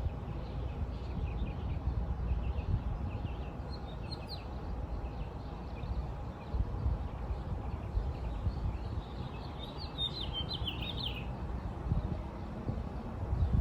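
Small birds chirping on and off, with a louder quick run of chirps about ten seconds in, over a steady low rumble.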